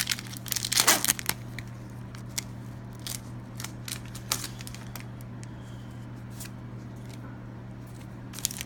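Foil wrapper of a Pokémon trading card booster pack being torn open, with a loud crinkling burst about a second in, then sparse soft crinkles and clicks as the wrapper and cards are handled.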